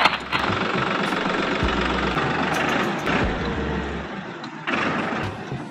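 Steady engine running sound of a DIY mini tractor as it drives. It drops briefly about four seconds in, then picks up again.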